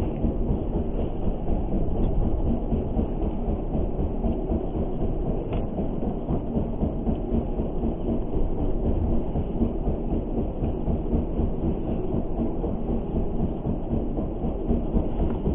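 Boat engine running steadily, a low, even rumble with a faint hum.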